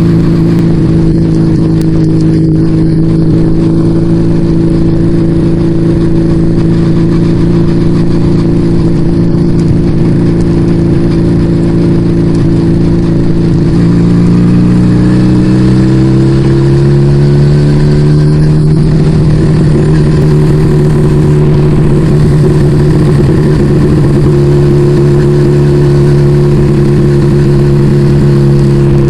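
Yamaha Vega ZR motorcycle engine with an aftermarket Arrow exhaust, running steadily under way. The engine note shifts roughly halfway through, with a short break, then holds steady again.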